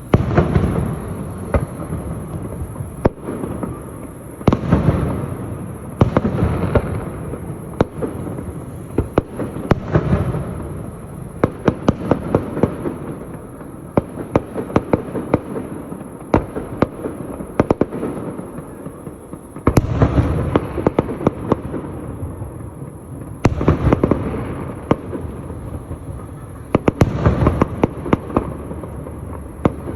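Fireworks display: aerial shells bursting in deep booms, mixed with rapid strings of sharp cracks and crackle, going on through the whole stretch with the heaviest volleys coming in waves every few seconds.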